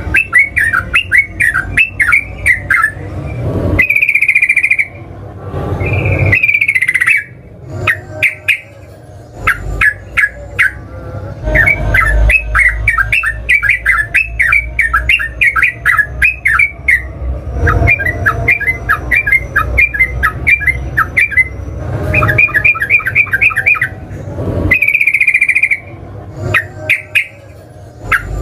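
Yellow-vented bulbul singing loudly in rapid bubbling runs of quick notes, broken by a few longer held notes, the fast rolling song that kicau fans call ropel.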